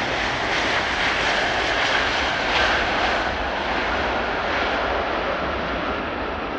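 Large jet airliner's engines passing close on landing approach: a steady rushing roar with a whine that slowly falls in pitch, loudest about two and a half seconds in, then easing slightly.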